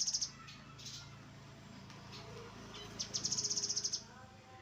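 Grey-headed canary-flycatcher singing: rapid, high trills of about a dozen notes a second. One trill ends just after the start, and another, about a second long, comes three seconds in.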